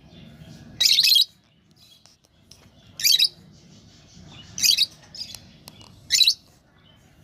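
Lovebird calling: about five short, high-pitched chirps, each well under half a second, spaced one to two seconds apart.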